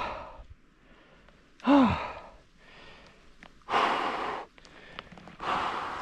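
A person breathing hard in long, heavy exhales, with a short falling groan about two seconds in.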